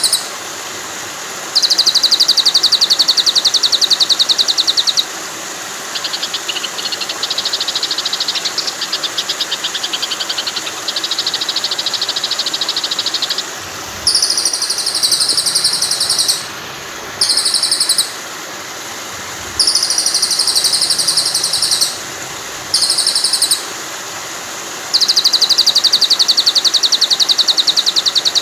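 Songbird song from a white-rumped shama training track: bursts of fast, high, pulsing trills, about seven phrases with short gaps between them, over the steady sound of running water.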